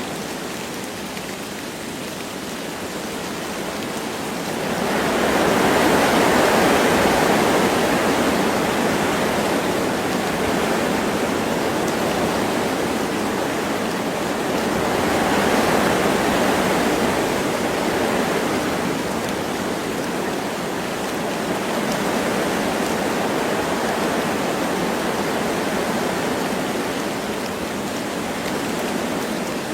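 Wind gusting through forest trees with light rain falling, a steady rushing that swells into stronger gusts about five seconds in and again around fifteen seconds.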